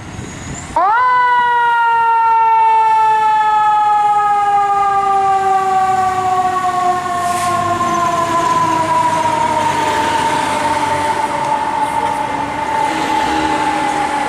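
Fire truck's mechanical siren. It comes in suddenly, loud, just under a second in, swings quickly up to its top pitch, then winds slowly down in one long falling wail with traffic noise underneath.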